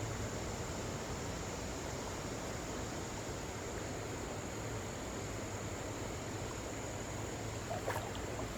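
Creek water running steadily, an even rushing with no change. Through it runs a thin, steady, high insect drone.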